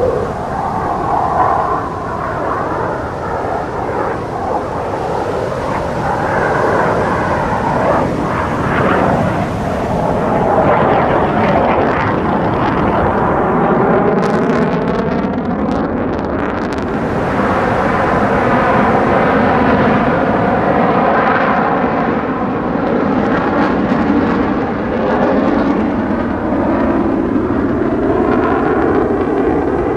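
Fighter jet engine noise, a loud continuous rush; from about halfway its tone sweeps and phases as the jet passes.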